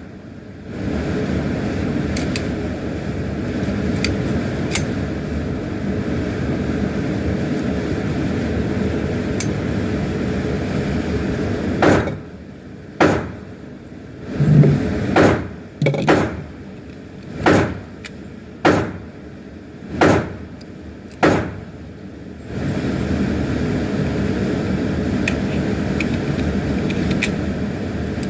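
A string of about nine or ten handgun shots, roughly a second apart, starting about twelve seconds in and stopping near the two-thirds mark. Before and after the string there is a steady background rush.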